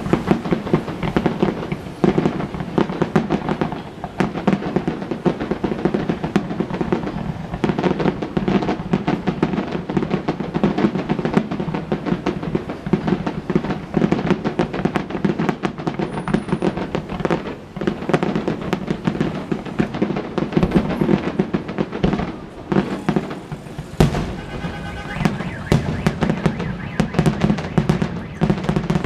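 Fireworks display going off in a dense, continuous run of bangs and crackling bursts, with almost no pause between them.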